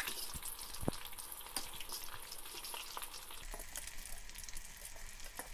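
Breaded chicken pieces deep-frying in hot oil: a steady sizzle full of fine crackles. A few light clicks come from a spoon stirring and turning the pieces in the metal pan.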